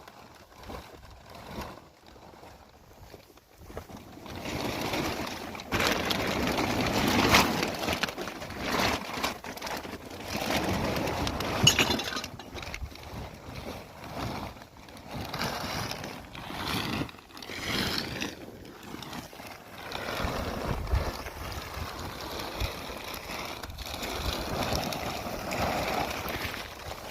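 Irregular scraping, knocking and clinking of hand work with tools and stones, with no engine in it; it grows louder about four seconds in.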